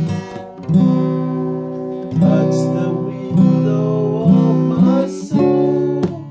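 Acoustic guitar music, with chords strummed about once a second.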